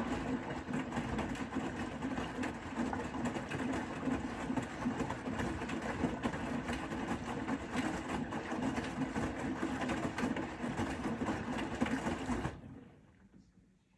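Bosch Serie 4 WAK20260TR front-loading washing machine with its drum turning the wash, motor whirring steadily. About twelve seconds in it winds down and stops, the pause between tumbling turns.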